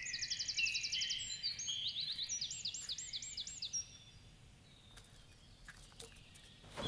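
Eurasian nuthatch calling: a quick run of high, thin repeated notes, then a few looping whistled notes, trailing off about four seconds in.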